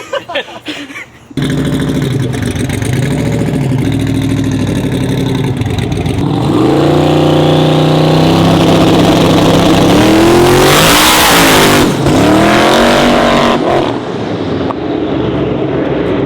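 Twin-turbo 4x4 truck's engine at full throttle on a street pull: it cuts in suddenly about a second in, holds a steady note for a few seconds, then climbs in pitch as the truck launches and accelerates, with a brief dip near the middle and a drop-off near the end. The run is made without nitrous.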